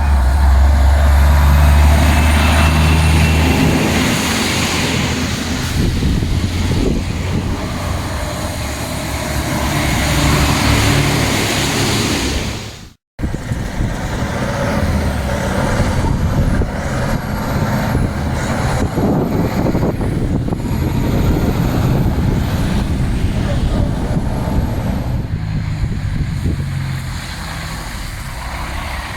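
Heavy diesel dump truck engines running in street traffic, loudest in the first few seconds. The sound drops out briefly just after halfway. In the second half a high whine rises and falls several times.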